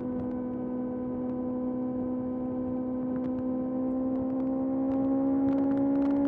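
Kawasaki ZX-6R's inline-four engine under way, its note steady and slowly rising in pitch and loudness as the bike gathers speed in gear.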